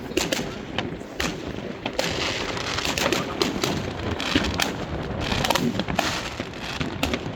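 New Year fireworks going off: a rapid, irregular run of bangs and crackles, one after another with no let-up.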